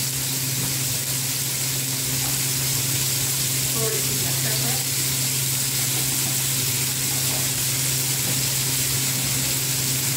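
Chicken pieces frying in oil in a frying pan on a gas stove, a steady sizzle, with a steady low hum underneath.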